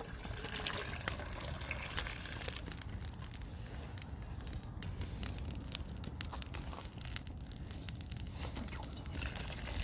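Wood fire crackling: scattered sharp pops and snaps over a steady low hiss.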